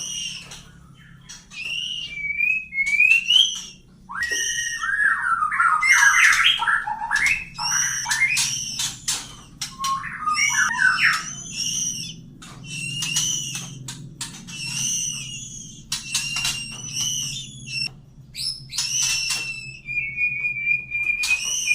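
Murai chicks (young Copsychus songbirds) calling: rapid chirps and squeaky whistles that glide up and down, busiest between about 4 and 11 seconds in, with a held whistle near the end. A faint steady low hum runs underneath.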